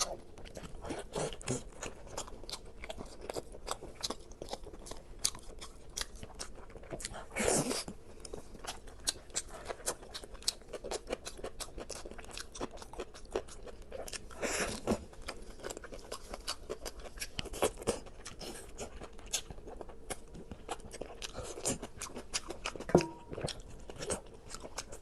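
Close-up chewing and crunching of food: a steady run of small crisp crackles, with two louder, longer crunches about seven and fourteen seconds in.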